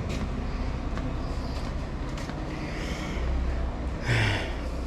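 Semi truck's diesel engine idling with a steady low rumble as it warms up, with a brief louder noise about four seconds in.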